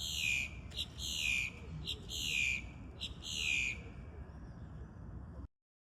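A bird calling over and over: about four loud calls that fall in pitch, each led by a short sharp note and coming a little over a second apart, over a low steady rumble. The sound cuts off abruptly near the end.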